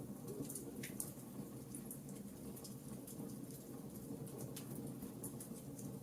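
Wood fire in a fireplace crackling: scattered sharp pops and ticks over a steady low rumble of the burning fire.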